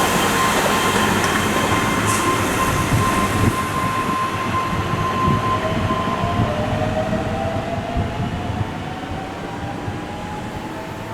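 Keihan electric train running through a curved elevated station: a steady rumble of wheels on rail with a held high tone. About halfway through, a slowly rising whine starts, and the whole sound fades as the train draws away.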